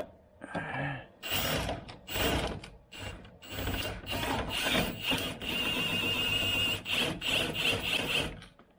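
Hand ratchet wrench worked in a series of strokes to tighten a bolt, the clicking coming in runs about a second long, then a longer unbroken run in the second half.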